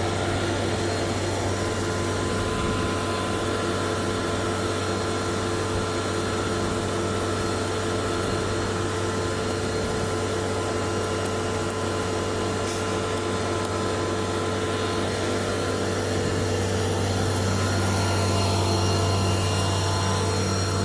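Truck-mounted concrete boom pump running: a steady mechanical drone of engine and hydraulic pump with a deep hum, growing slightly louder near the end.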